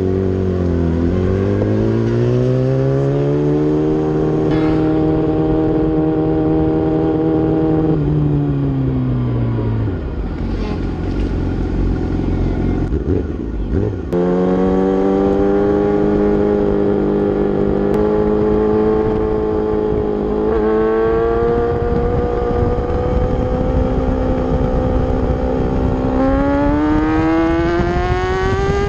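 Racing motorcycle engine at speed: its pitch climbs and holds, falls away about eight to ten seconds in, then climbs again from about fourteen seconds. There is a sudden step down in pitch about twenty seconds in, and a rise near the end.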